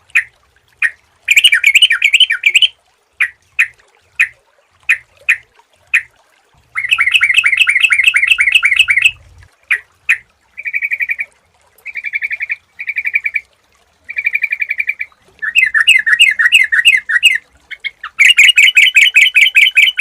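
Yellow-vented bulbul (trucukan) singing loudly: short separate notes, then bouts of quick, bubbling chatter, with brief pauses between the bouts. It is a clear, lively song of the kind played to lure or train caged bulbuls.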